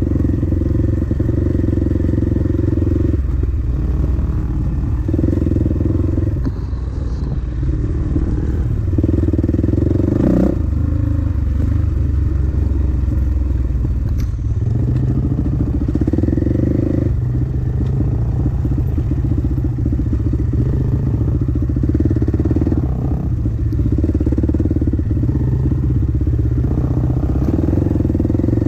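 Dirt bike engine running hard on a trail ride, the throttle opening and closing every couple of seconds, with a single sharp knock about ten seconds in.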